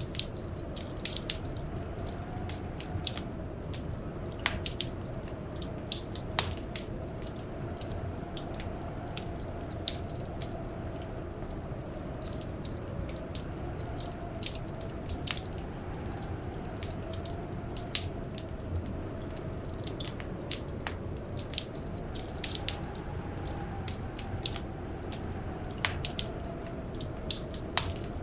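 Wood fire crackling: frequent irregular sharp pops and snaps over a steady low rumble, with a faint wavering whistle underneath.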